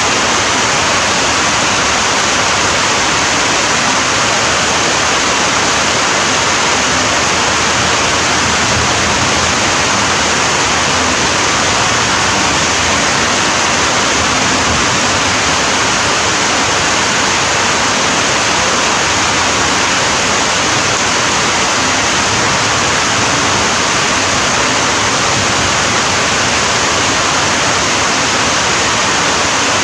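Steady, dense rain falling, an unbroken hiss with no changes or separate drops standing out.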